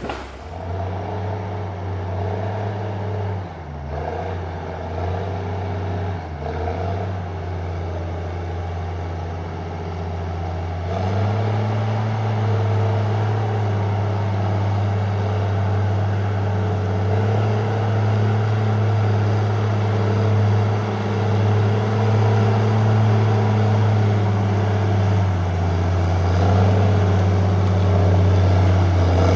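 Heavy logging machine's diesel engine running steadily. It sags briefly twice in the first several seconds as if taking load, then revs up a little about eleven seconds in and holds there.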